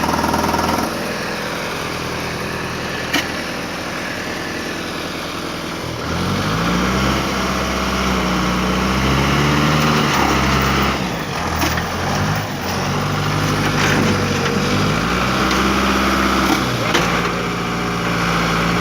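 A crane's engine running steadily, then about six seconds in it revs up and down repeatedly under load, straining as it pulls the overturned truck. A few short knocks sound over it.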